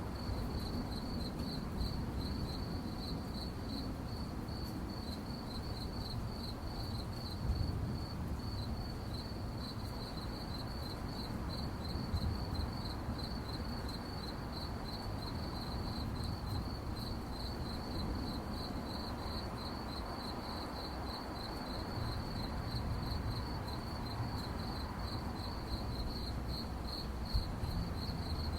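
Crickets chirping at night in a steady, even rhythm of high-pitched pulses, over a low background rumble.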